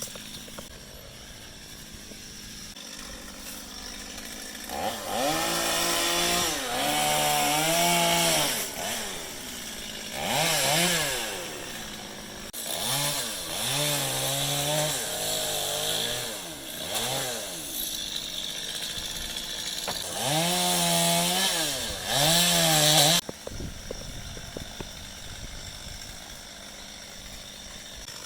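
Gas chainsaw revving in repeated bursts, its engine pitch rising and falling with the throttle. Near the end the revving cuts off suddenly, leaving a quieter steady sound.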